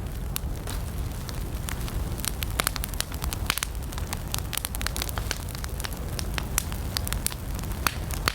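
Wood campfire burning, the flames making a steady low rumble under many sharp, irregular crackles and pops.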